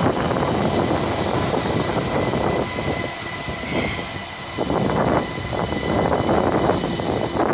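ÖBB Cityjet electric train moving through the station with a dense rolling rumble. A thin steady high tone is held over it, and the noise eases for a moment about three seconds in.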